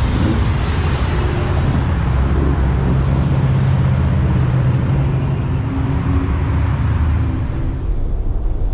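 A motor vehicle's engine running as a steady low drone, with road or traffic noise over it that dies down near the end.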